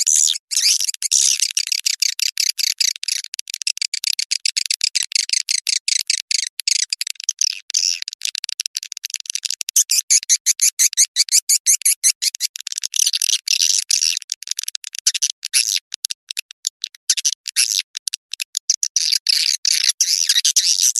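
Swiftlet lure call recording: a dense, rapid stream of high chirps and clicks of swiftlets, with nothing in the low range. It is the kind of call played to draw swiftlets into a nesting house.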